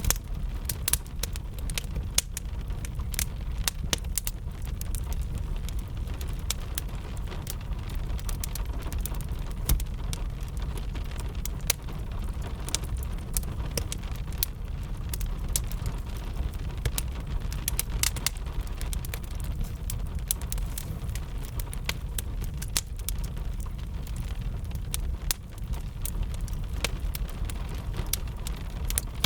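Fire crackling with many irregular sharp pops, over steady rain and a low rumble.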